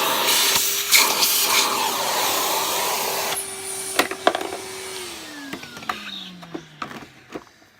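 Small Numatic Henry vacuum cleaner running with air rushing through it, switched off about three seconds in; its motor hum then winds down, falling steadily in pitch over the next few seconds, with a few sharp clicks and knocks.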